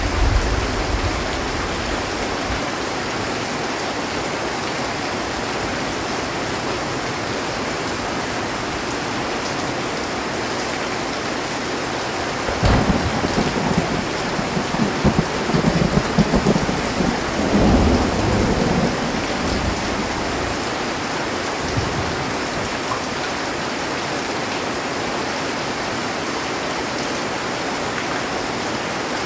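Heavy rain falling steadily on a metal roof. A low thunder rumble fades out in the first couple of seconds, and a longer peal of thunder with several surges comes about halfway through and lasts some seven seconds.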